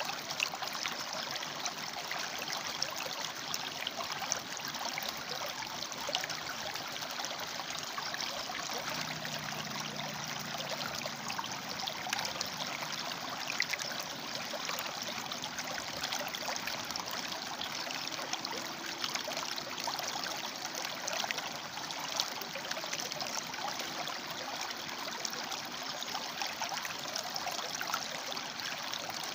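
River water flowing steadily over and between rocks, an even rushing and splashing with small trickles.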